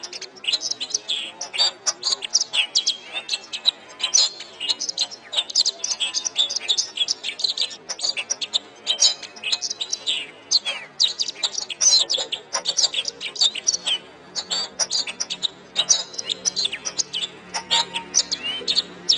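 Domestic canary singing a fast, continuous song of rapid chirps and trills.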